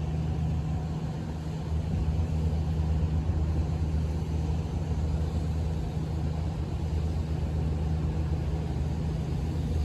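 A large engine running steadily with an even low drone.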